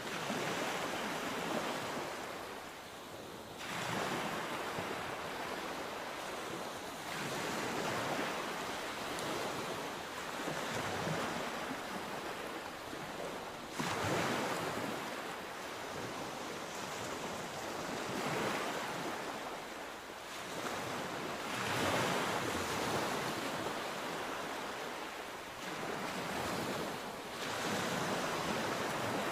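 Sea waves breaking and washing ashore, a rushing hiss that swells every three to five seconds as each wave comes in.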